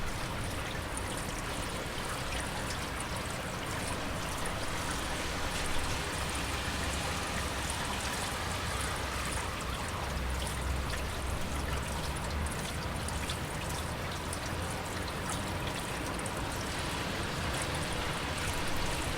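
Steady heavy rain with water pouring and trickling. A low rumble swells in the middle and fades again.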